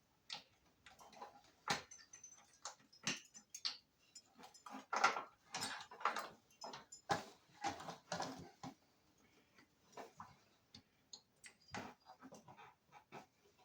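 Small parts of a truck instrument cluster being handled on a bench: irregular light clicks, taps and short scraping rustles of plastic and metal, busiest in the middle.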